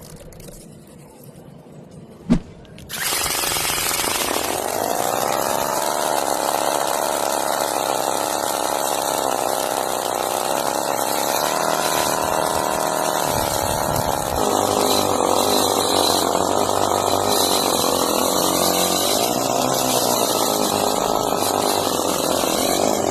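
A small motor starts suddenly about three seconds in, just after a sharp click. It runs steadily with a buzzing tone that rises a little at first and then holds, shifting slightly about halfway through.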